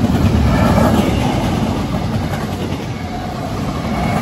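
Double-stack intermodal freight train passing close by at speed: the steady rumble and rattle of its wheels and well cars on the rails.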